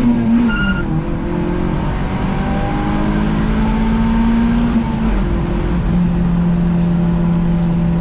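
Car engine pulling under way, heard from the driver's seat: the revs climb slowly, fall away about five seconds in as the driver shifts or lifts off, then hold steady. A brief high tone sounds under a second in.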